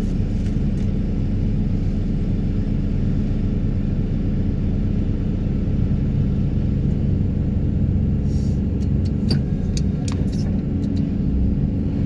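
Excavator engine and hydraulics running as a steady low drone while working a vibratory hammer to pull sheet piles, with a few light clicks about two-thirds of the way in.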